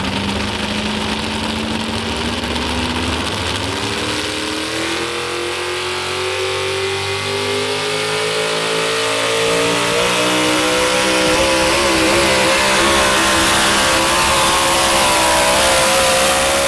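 Modified 4x4 pulling truck's engine running hard under full load, its pitch climbing steadily as the revs rise and holding high near the end.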